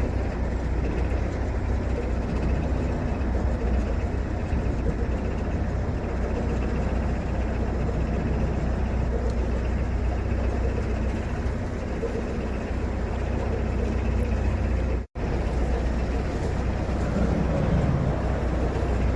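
Narrowboat engine running steadily under way, a low even thrum. It drops out completely for an instant about fifteen seconds in.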